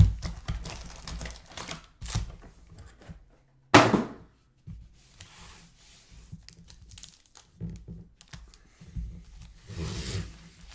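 Trading card packs and cards handled on a table: wrapper crinkling and tearing mixed with clicks and knocks, with a sharp knock at the start and a loud thump a little under four seconds in.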